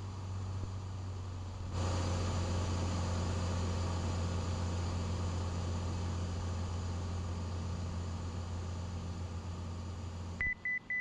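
Steady drone of a Cessna 182's six-cylinder piston engine filling the cabin. It grows louder a couple of seconds in and cuts off abruptly near the end. A quick run of about five short, high electronic beeps follows the cut-off.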